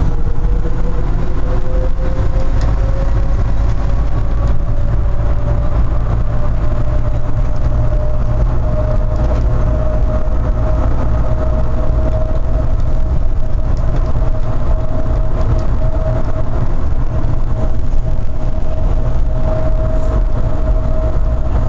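Inside a car of an automated airport people-mover train in motion: a motor whine rises in pitch over the first several seconds as the train gathers speed, then holds steady at cruising speed, over a heavy low running rumble.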